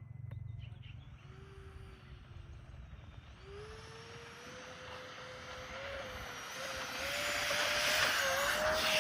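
The twin electric ducted fans of an E-flite Airbus A320 RC model jet spool up for takeoff. A whine rises in pitch about three and a half seconds in, and a rushing hiss builds to its loudest near the end.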